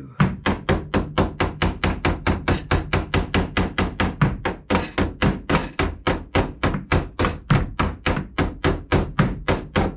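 Hammer pounding on a steel piece, rapid even blows about four a second, knocking it down into position.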